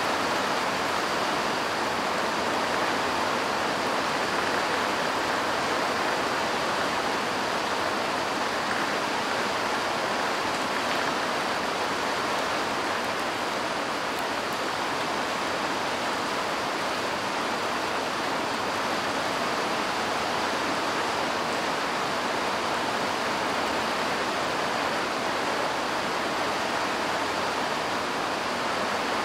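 Steady rain falling on parked cars and muddy ground, an even hiss that holds level throughout.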